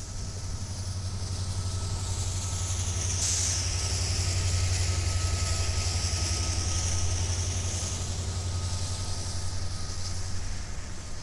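Several diesel freight locomotives passing close by, their engines rumbling steadily under a rushing hiss from the train that swells about three seconds in and eases off near eight.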